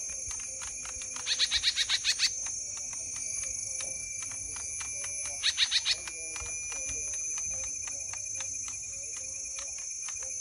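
Scarlet-backed flowerpecker calling: a rapid run of about eight sharp notes a second in, then a shorter run of about four a few seconds later. Under it runs a steady high-pitched ringing with faint regular ticks.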